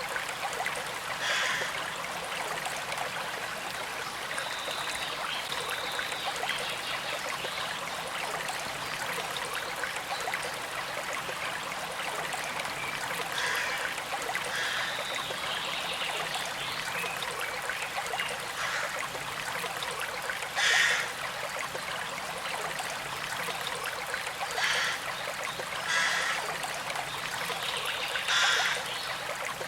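Small creek flowing steadily with a gentle trickle. The water briefly swells louder several times, most strongly about two-thirds of the way in and near the end.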